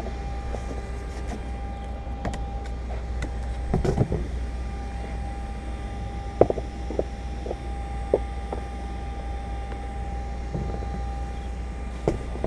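Steady low hum with a faint steady whine over it, under scattered light clicks and knocks from handling parts and tools at the car.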